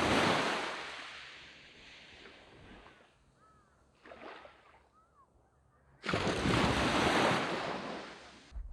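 Sea waves breaking on a sand beach. One breaker crashes right at the start and washes out over a few seconds, a small wash follows about four seconds in, and a second big breaker crashes about six seconds in.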